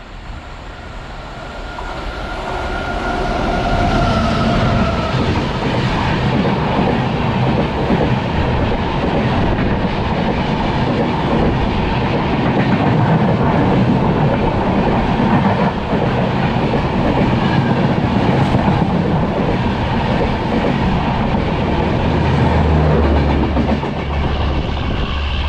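Duronto Express passenger train running past close by on the adjacent track: it grows loud over the first few seconds, then a steady rumble and clatter of coach wheels over the rails.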